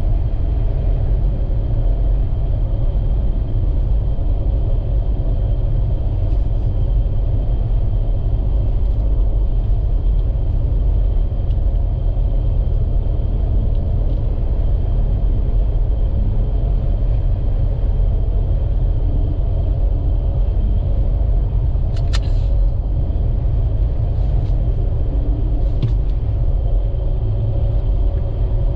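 Steady low rumble of a vehicle on the road, with a few brief faint clicks about 22 and 26 seconds in.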